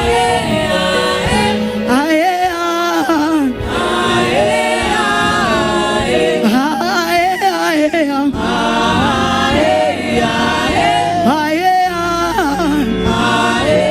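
Worship singers and choir singing a slow gospel worship chorus with musical accompaniment, long held notes sliding up and down.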